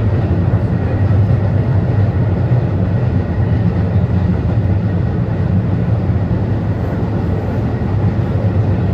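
Athens Metro Line 3 train running at speed, heard from inside the car: a steady, unbroken low rumble.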